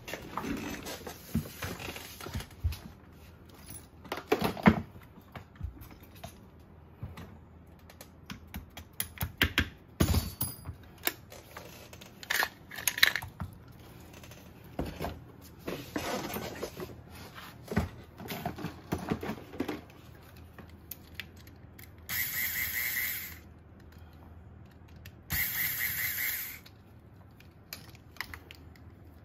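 Metal parts of a gas-blowback airsoft rifle being handled and taken apart to swap its bolt carrier: irregular clicks, knocks and scrapes. Two louder rushing sounds of about a second each come a little after two-thirds of the way through.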